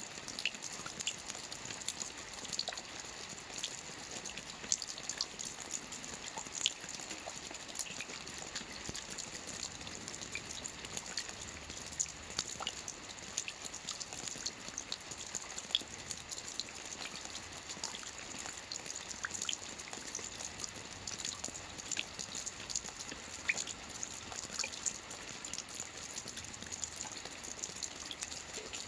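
Soft rain falling on a roof: a steady, even wash of fine drops with many small, sharp ticks of single drops scattered throughout.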